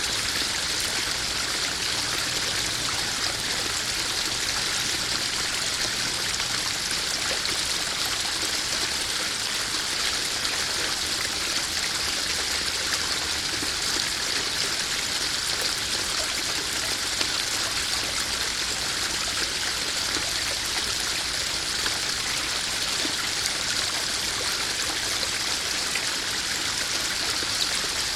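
Small garden waterfall splashing steadily into a koi pond.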